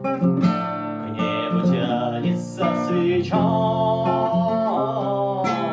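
Acoustic guitar strummed in a steady rhythm, playing chords. A held note with some wavering in pitch comes in over it in the second half, likely a voice singing without words.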